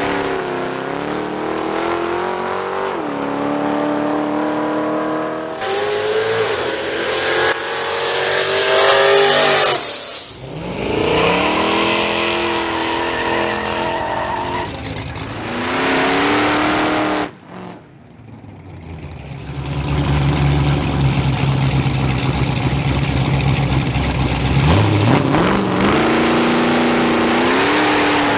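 Street-car engines revving up and pulling away, their pitch rising and falling several times. The sound drops out briefly past the middle, then a deep steady engine note gives way to another rising rev near the end.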